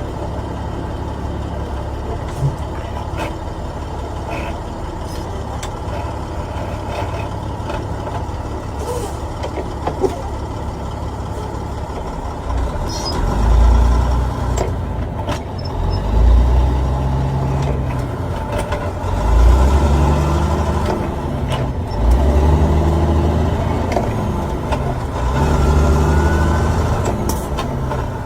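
Semi truck's diesel engine running with a steady low drone, then from about halfway rising in pitch and dropping back again several times.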